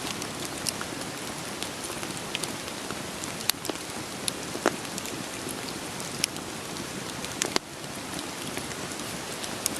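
Steady rain hiss with scattered sharp pops and crackles of burning firewood, about one every second or two. The hiss drops abruptly a little about three-quarters of the way through.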